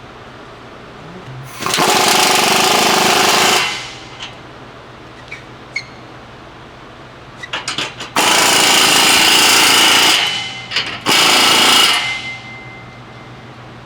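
An impact wrench hammering in three bursts of about two seconds, two seconds and one second, with a few light clicks between, as fasteners are run off a car.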